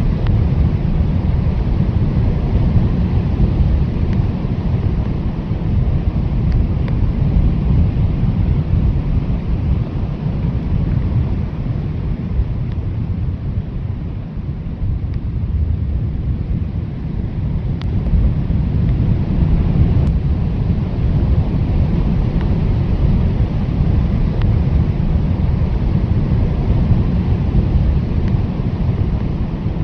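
Blizzard wind blowing hard and steadily, a deep rumble with little high hiss. It eases a little about halfway and then builds again.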